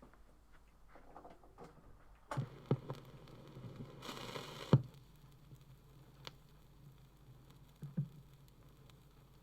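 Vinyl record lead-in: the stylus lands with a thump and a short scrape ending in a sharp click, then a steady low hum and faint surface noise with occasional single clicks.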